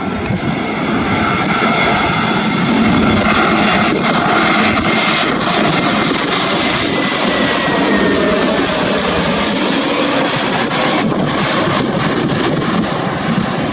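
Jet airliner engines running loud and steady, a dense rush with a faint high whine that slides slightly down in pitch midway.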